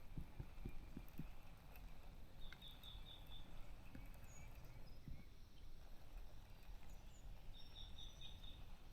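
Faint outdoor quiet with birds calling: two short runs of rapid high chirps, about five notes each, with a few other scattered high calls and some light knocks.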